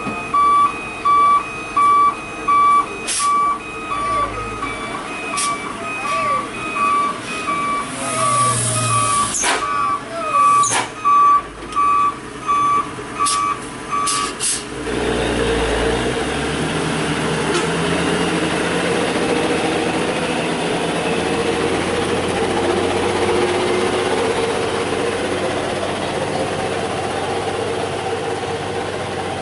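A heavy truck's reversing alarm beeping about once every three-quarters of a second, stopping about halfway through, over the truck's diesel engine running; there is a short air-brake hiss a little before the beeping ends. A loaded truck backing up to make a tight uphill turn.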